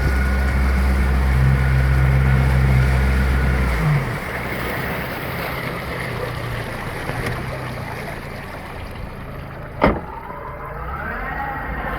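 Fishing boat's motor running steadily, then throttling back about four seconds in to a lower, rougher running sound. A single sharp knock comes near the end.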